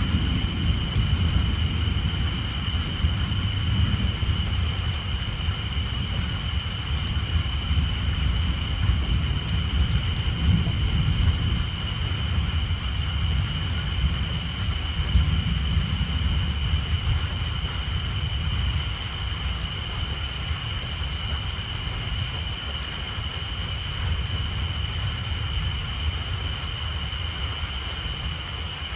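A long roll of thunder rumbling low and slowly easing off over the last third, over steady rain pattering on a tin roof. Tree frogs keep up a steady high-pitched chorus throughout.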